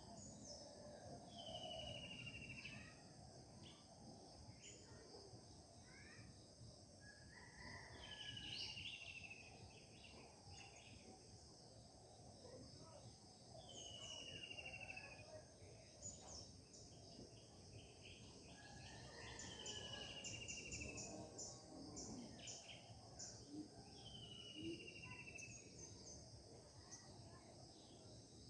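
Faint morning birdsong: one bird repeats a short whistled phrase that falls in pitch, about every five or six seconds, while other birds chirp briefly in between. A steady high-pitched drone and a low rumble sit underneath.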